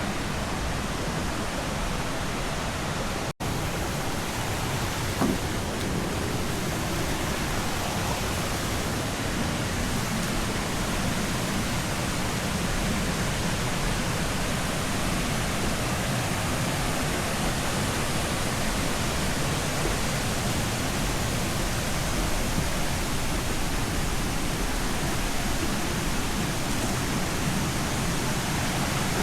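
Steady rush of flowing water from a mountain stream with waterfalls, an even hiss with no change in level. It cuts out for an instant about three seconds in.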